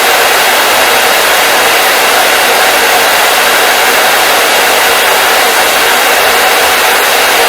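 Hair dryer running steadily, a constant airy rush of blown air over the hum of its fan motor.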